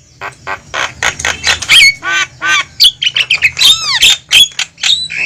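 Javan mynas calling noisily: a rapid, dense run of harsh squawks and chatter, with a few arching whistled notes about three and a half seconds in.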